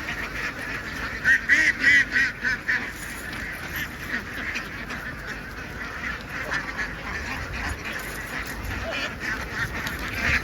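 A large flock of ducks quacking all together in a dense, continuous clamour, with a louder burst of calls from about one to three seconds in.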